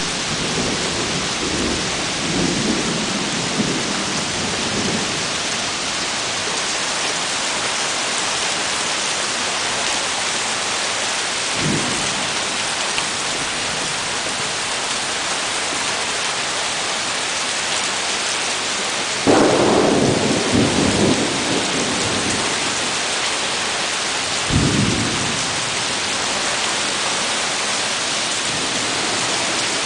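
Thunderstorm: a steady hiss of heavy rain, with low rolling thunder in the first few seconds and a short crack of thunder a little before the middle. A loud, sudden thunderclap about two-thirds of the way in rumbles on for a couple of seconds, and a second clap follows a few seconds later.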